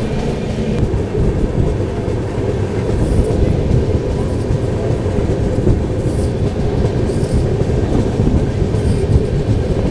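Prayagraj Express passenger train running at speed, a steady rumble of wheels on rails heard at an open coach doorway, with a few brief clatters along the way.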